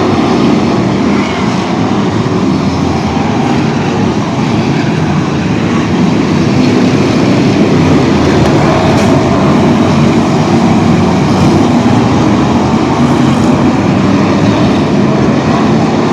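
Loud, steady vehicle rumble and road or engine noise, with no clear rises or falls in engine pitch; it cuts off abruptly at the end.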